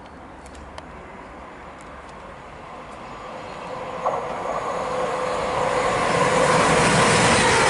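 A Class 350 Desiro electric multiple unit approaches. Its running noise grows steadily louder over a few seconds, with steady high tones over the rumble, then holds at full strength as it draws near. There is a single sharp click about four seconds in.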